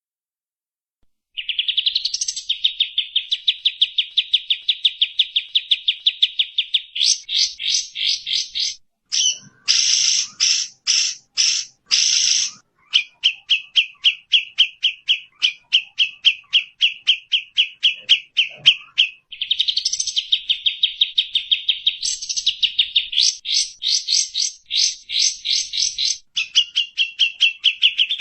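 Bird song from a masteran training recording: long, fast trills of rapidly repeated high notes that start just over a second in, broken about ten seconds in by a short run of harsher, buzzier notes before the trilling resumes.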